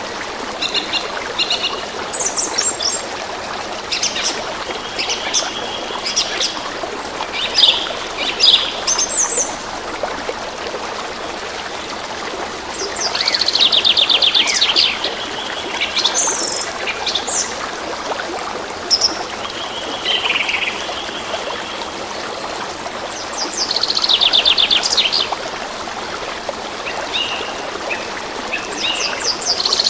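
A small stream trickling steadily while songbirds call and chirp over it. A loud, fast trilled song comes three times: about 13 seconds in, about 23 seconds in, and at the very end.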